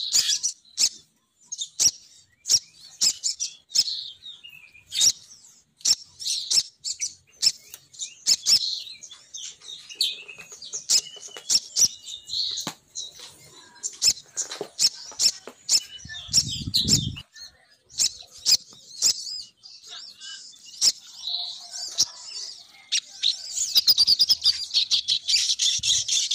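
Female sogon bird lure call: sharp, high chirps and clicks repeated again and again, growing into fast, dense chirping near the end. A brief low thump comes about two-thirds of the way in.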